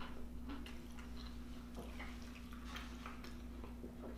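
Close-miked chewing: soft, scattered mouth clicks and smacks of someone eating, over a faint steady hum.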